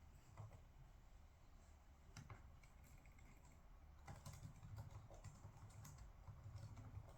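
Faint, irregular typing on a computer keyboard, keystrokes coming in short bunches with pauses between.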